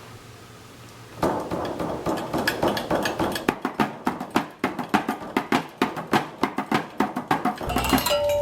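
Drum kit played in a fast, loose run of hits, starting about a second in.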